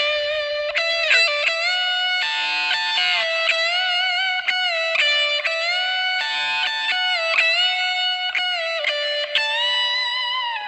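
Trailer music: a lead electric guitar plays a slow melody of held notes with bends and slides, ending on a downward slide.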